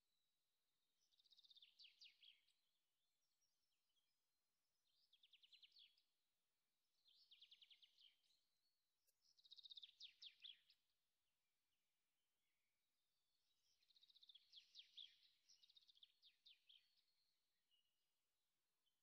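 Faint birdsong: short, rapid trilled phrases repeated every few seconds, with quiet gaps between them and one longer run of song near the end.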